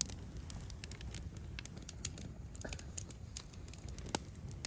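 Campfire crackling: irregular sharp pops and snaps, a few louder than the rest, over a faint low rumble.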